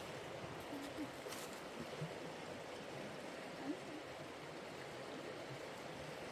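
Steady, even water noise with no break, from rain or running water, with a few faint short sounds over it.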